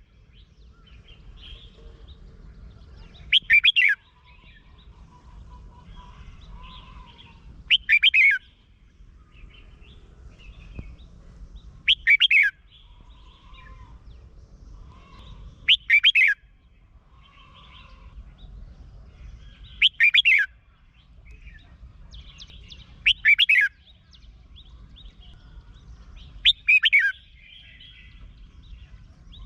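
Red-whiskered bulbul singing: a short, loud, bubbling phrase about every four seconds, seven in all, with softer chirps in between.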